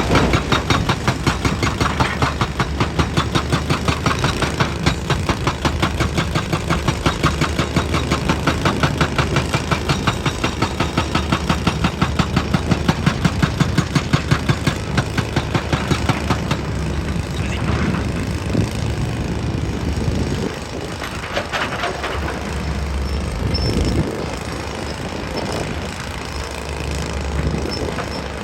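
Excavator running under load, with fast, even rhythmic pounding for about the first half that gives way to steadier engine running with a few swells.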